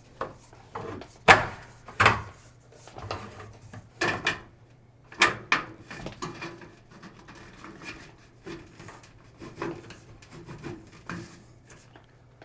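Irregular knocks and clunks against wood framing, with a little rubbing, the heaviest in the first five seconds and lighter after: PEX tubing being worked through drilled studs and fitted into place.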